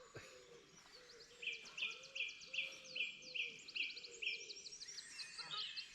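Wild birds singing: one bird repeats a clear note about seven times in a steady run, while others give quick, high, downward-sliding calls, with more calling near the end.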